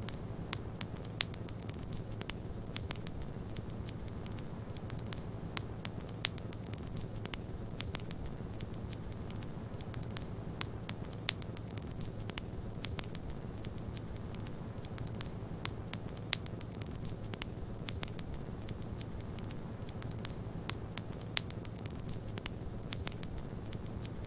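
Wood fire in a fireplace crackling, with frequent irregular snaps and a few louder pops, over a steady low rush of wind from a snowstorm.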